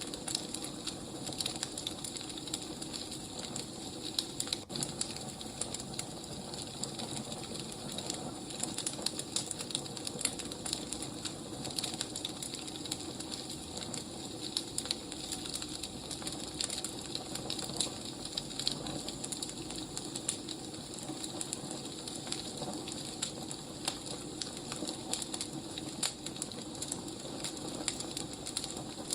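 Wood fire crackling, with frequent small irregular pops and snaps over a steady low hiss.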